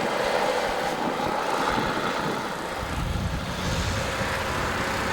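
Snowplow truck's engine running as the plow passes, with a deeper rumble building about three seconds in.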